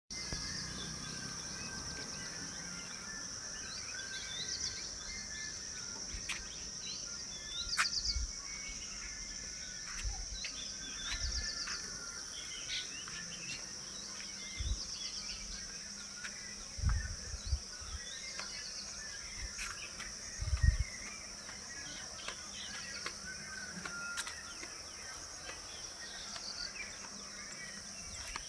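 Outdoor nature ambience: a steady, high insect drone with many birds chirping over it. A few brief low thumps, the loudest about 21 seconds in, break through now and then.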